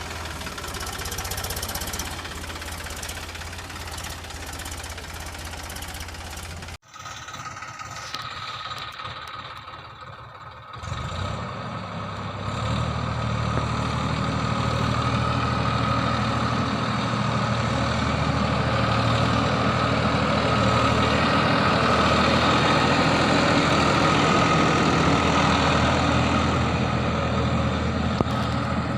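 Tractor engines running steadily, heard in separate clips. The sound cuts off abruptly about seven seconds in. From about eleven seconds a louder engine with a low hum and a high whine takes over and runs steadily.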